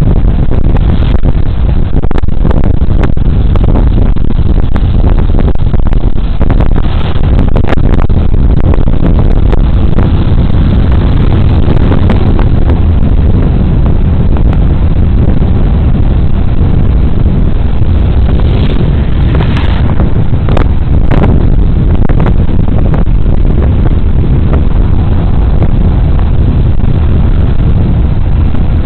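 Loud, steady wind rumble on a body-worn camera's microphone while riding a Suzuki Burgman Street 125 scooter, with the scooter's engine and road noise underneath. There are brief sharp knocks now and then.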